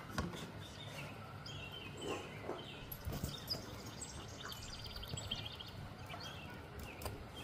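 Birds calling with short, scattered chirps over a steady outdoor background hiss.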